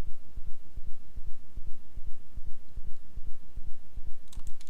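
A low, rhythmic throbbing hum pulsing several times a second. A few sharp clicks come near the end.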